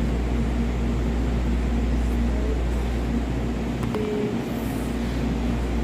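Steady low rumble and hiss of background noise with a faint hum, and a short faint tone about four seconds in.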